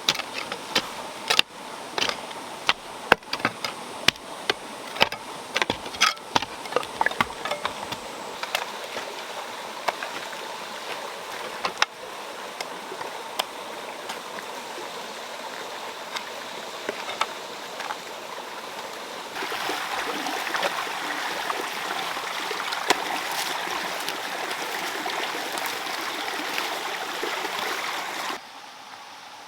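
Running water flowing steadily, with many sharp clicks and splashes over the first several seconds. The flow gets louder about two-thirds of the way through and drops off suddenly near the end.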